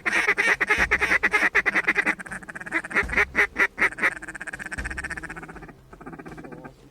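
Duck quacking in fast runs of short notes, loud for the first two seconds and again about three to four seconds in, then quieter.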